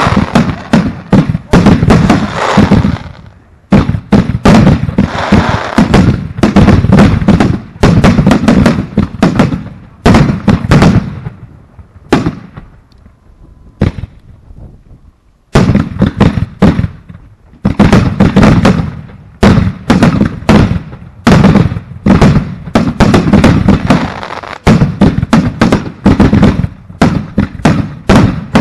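Aerial fireworks firing in rapid volleys, a dense run of bangs and pops. They fall quiet for about three seconds near the middle, then start again.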